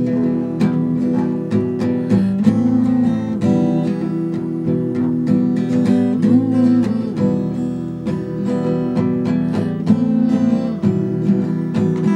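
Acoustic guitar strummed in a steady rhythm: an instrumental interlude with no singing.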